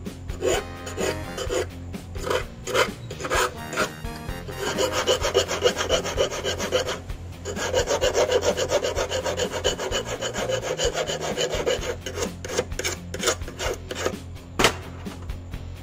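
Hand file rasping back and forth across the ends of metal wire, shaping fishing-hook blanks. Separate strokes at first, then a fast, continuous run of strokes from about five seconds in to about twelve, broken by a brief pause near seven seconds, then separate strokes again.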